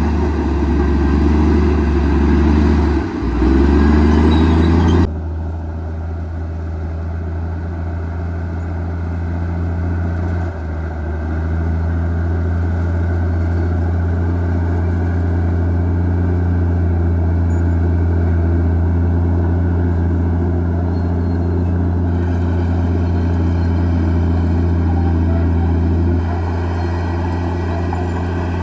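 Komatsu D58E bulldozer's diesel engine running steadily with a deep, even hum. About five seconds in the sound changes abruptly and becomes a little quieter.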